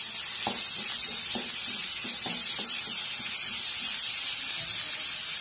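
Onions, tomato and aromatics sizzling in coconut oil in a metal kadai, stirred with a wooden spatula that scrapes and taps the pan about twice a second.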